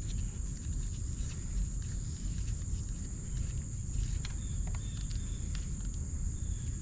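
Steady high-pitched buzz of crickets or similar insects over a low rumble, with a few faint clicks about four to five seconds in.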